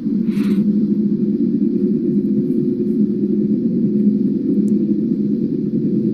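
Loud, steady, low droning hum of the kind posted as a mysterious sound in the sky, holding one deep pitch throughout, with a brief hiss about half a second in.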